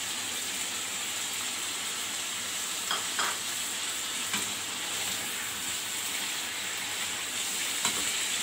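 Chicken and tomato purée sizzling in hot oil in a metal karahi, stirred with a slotted metal spoon that clicks against the pan a few times.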